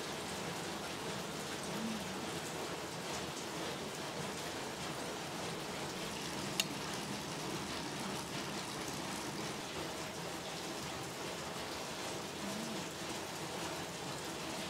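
Steady rain falling, an even hiss, with a single sharp click about six and a half seconds in.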